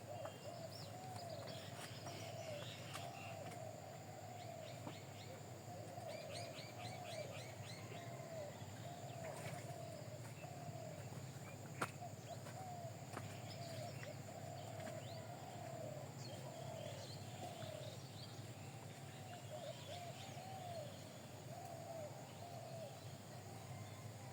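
Birds calling and chirping throughout, with many short repeated calls and higher chirps over them. There is a quick trill about six seconds in and a single sharp click about halfway through.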